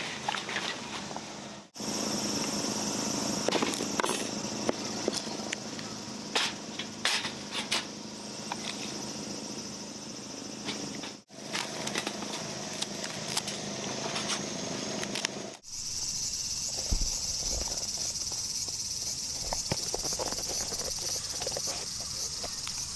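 Outdoor summer insects droning steadily at a high pitch, with scattered sharp clicks and knocks over them. The sound cuts out briefly three times.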